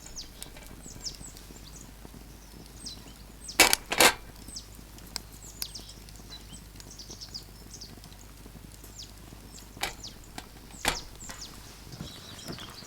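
Small songbirds chirping steadily, many short falling calls overlapping. Sharp clinks cut through: two close together about three and a half seconds in, then one near ten seconds and another near eleven.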